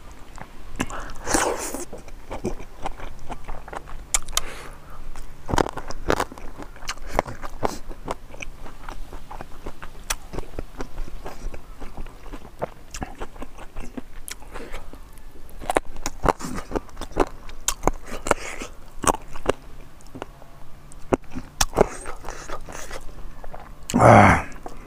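Close-miked chewing: wet mouth clicks, lip smacks and crunching from someone eating pig trotters with rice and greens by hand. A short vocal sound comes about a second in, and a louder one near the end.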